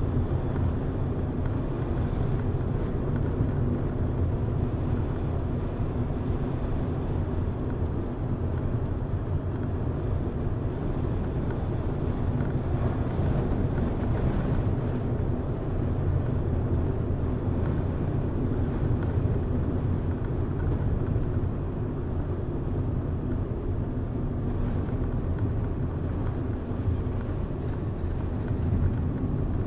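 A car driving at a steady pace: the engine and the tyres on the road make a continuous low drone.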